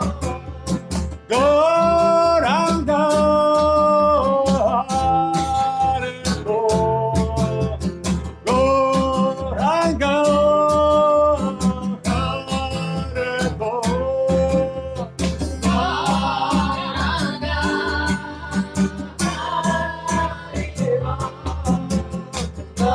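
Kirtan: a devotional mantra chant sung in long held, gliding notes over steady acoustic guitar strumming.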